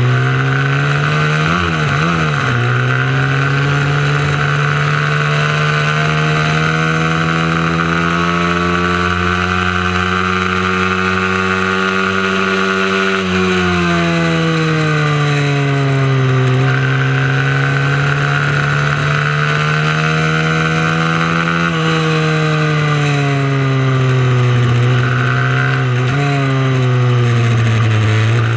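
Small racing mini moto engine at high revs, its pitch climbing steadily for several seconds and then falling away, about three times over, as the bike is ridden hard through a lap.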